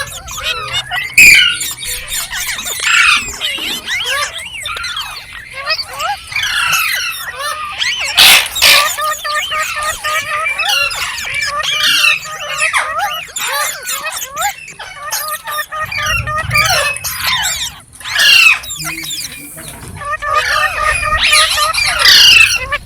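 Green parrots chirping and screeching, a rapid stream of short overlapping calls with a few louder shrill squawks.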